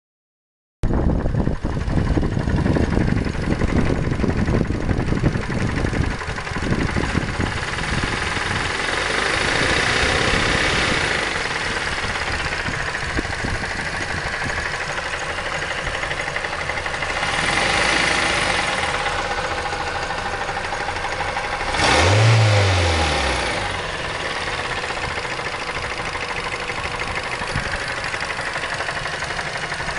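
Mazda 3 engine running with a knock and being revved three times, the last rev the loudest. The knock is traced to a sunken cylinder liner and a broken piston in the fourth cylinder.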